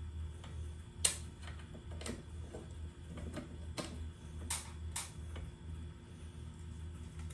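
About half a dozen irregular light clicks and taps, the loudest about a second in, over a steady low hum.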